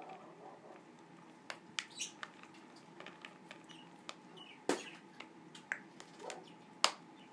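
African grey parrot rummaging in and flinging food from a container of nuts: scattered sharp clicks and taps, about six of them louder, with a few faint short chirps.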